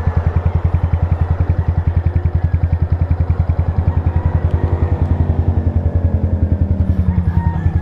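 Yamaha Sniper 155R's single-cylinder engine idling through an Akrapovic full-system exhaust: a steady, even, rapid exhaust pulse that does not rise or fall in speed.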